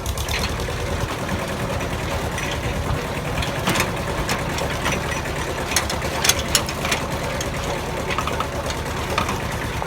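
Tractor engine running steadily with a fast, even chugging, and a few sharp clicks about four and six seconds in.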